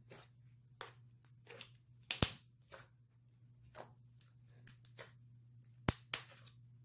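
Crinkled plastic being handled: a string of sharp crackles, with two louder snaps about two seconds in and near the end, over a low steady hum.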